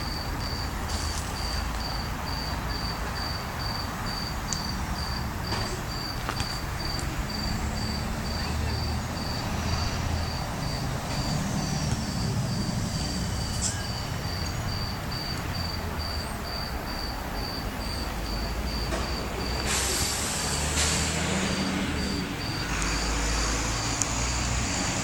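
A cricket chirping in short, evenly spaced high pulses, about three a second, over a low background rumble. A hiss comes in twice near the end.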